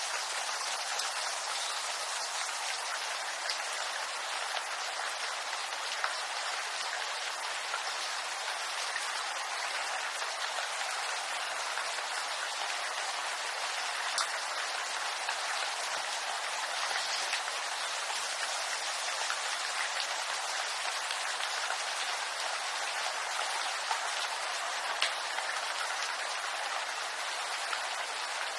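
Steady rain falling on a bamboo grove, an even hiss with occasional sharper drip ticks.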